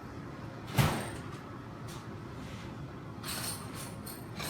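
A single sharp knock about a second in, over a steady low background hum, with a few faint light clinks near the end.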